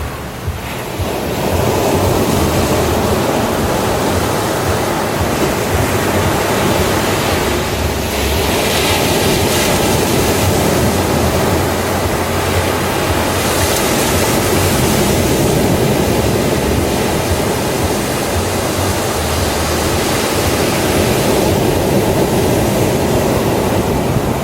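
Ocean surf on a beach: a continuous rushing wash of waves. The hiss of breaking water swells up twice, about a third of the way in and again just past halfway.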